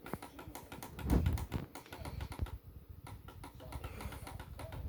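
Typing on a computer keyboard: a run of quick, uneven key clicks, with a louder low thump about a second in.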